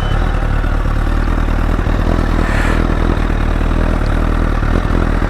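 Honda CBR1000RR Fireblade's 998 cc inline-four idling steadily through an aftermarket LeoVince exhaust, moments after starting.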